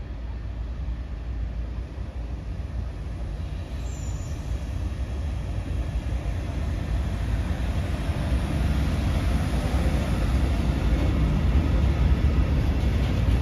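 ÖBB class 1116 Taurus electric locomotive hauling a freight train of tank wagons past: the rumble of wheels rolling on the rails, growing steadily louder as the locomotive and the wagons go by.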